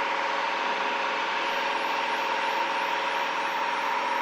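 Piper Comanche 260's six-cylinder engine running steadily at climb power after takeoff, a constant drone heard inside the cabin.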